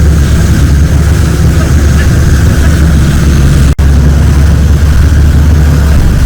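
Longtail boat's engine running loud and steady under way, a deep drone with a split-second gap nearly four seconds in.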